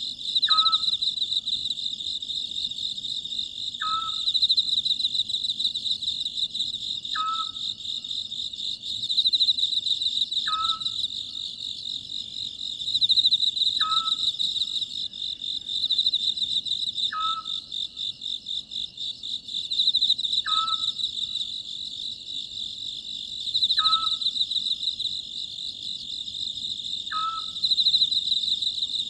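Oriental scops owl calling, a short call repeated about every three seconds, nine times, over a steady, loud chorus of crickets.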